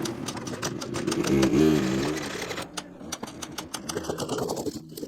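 Small dirt bike being cranked over without catching: a rapid, irregular mechanical clatter of clicks as the engine fails to start.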